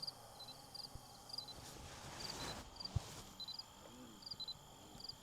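Crickets chirping steadily and faintly, short trilled chirps repeating about twice a second. A soft whoosh swells and fades about two and a half seconds in.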